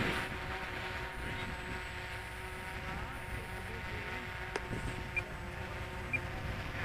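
Electric motor of a radio-controlled model airplane running as a faint, steady whine, with low wind rumble on the microphone and a single click a little past halfway.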